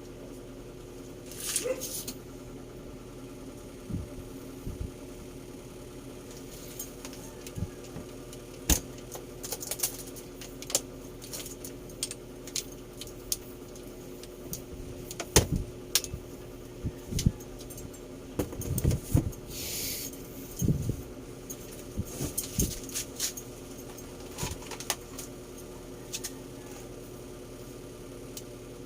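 Scattered clicks, taps and knocks, as of objects being handled, over a steady low hum.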